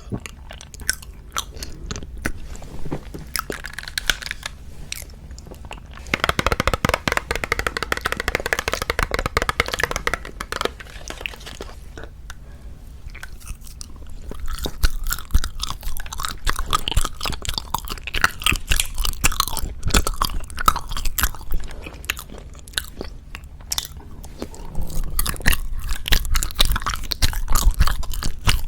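Close-miked chewing and biting of Japanese wagashi confections: dense wet clicks and crunchy crackle, coming in louder spells with quieter pauses between bites.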